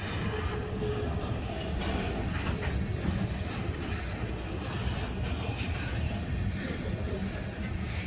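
Freight train cars rolling past, a steady rumble of wheels on the rails with a few faint clacks.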